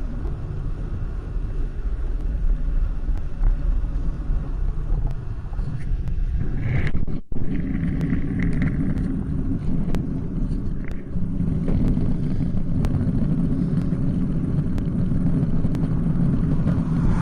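Steady low rumble of road and wind noise while riding along a highway. It cuts out for an instant about seven seconds in, then resumes with a heavier rumble.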